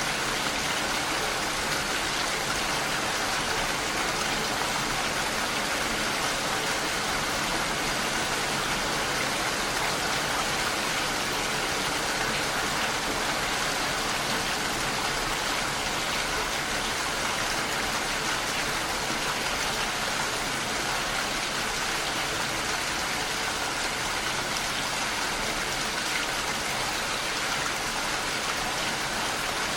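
Heavy rain falling steadily on a window pane, an even patter that does not change.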